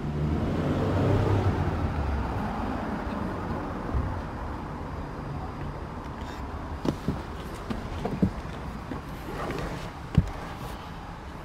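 2020 Mercedes-Benz G63 AMG's twin-turbo V8 running, loudest in the first couple of seconds and then slowly settling to a quieter idle, with a few light clicks near the end.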